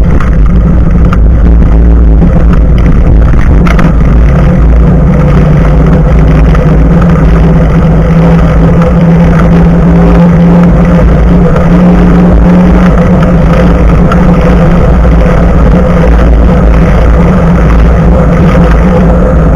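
Loud, steady rumble of wind on an action camera's microphone mounted low on a moving bicycle, mixed with the front tyre rolling on the road surface.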